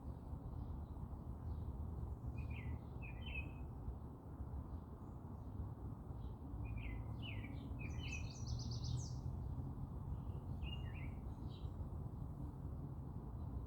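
Songbirds chirping in scattered short phrases, with a quick run of higher notes about two-thirds of the way through, over a steady low rumble of background noise.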